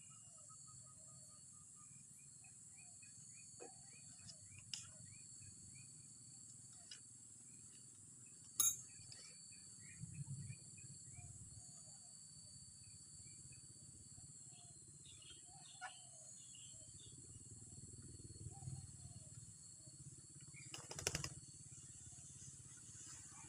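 Faint outdoor ambience: a steady high insect buzz with scattered faint bird chirps over a low rumble. A few sharp clicks or knocks break in, the loudest about a third of the way in and a cluster near the end.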